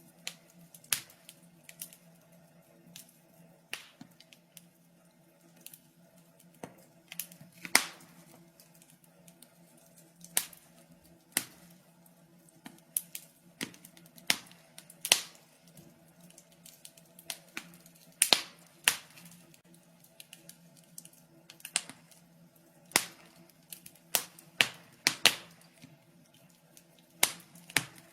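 Wood fire crackling in a fireplace: sharp, irregular pops and snaps, a few loud ones among many small ticks, over a faint steady low hum.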